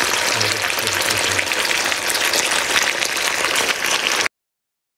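Chilli tofu with peppers and onion sizzling and bubbling in a thick sauce in a hot pan, a dense steady crackle that cuts off abruptly about four seconds in.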